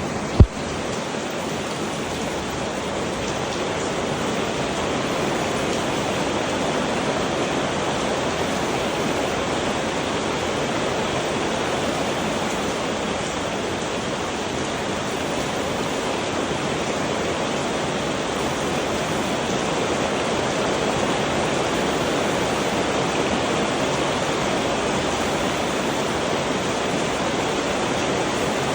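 Heavy rain falling in a steady, even hiss. A single sharp knock sounds about half a second in.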